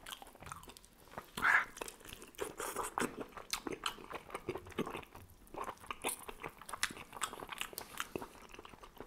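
Close-miked chewing and biting of food from a squid-and-vegetable tagine: wet mouth clicks and soft crunches, with one louder mouth noise about a second and a half in.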